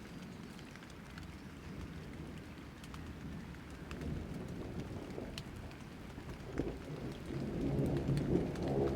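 Rain falling with scattered drops, under a low rumble of thunder that swells near the end.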